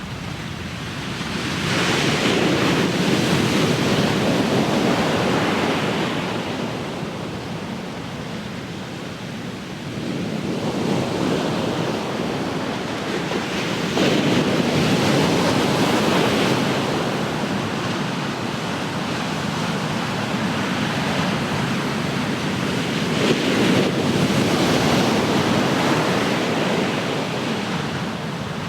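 Ocean surf: waves breaking and washing up the shore in slow surges roughly ten seconds apart, each swelling to a rushing hiss and then fading.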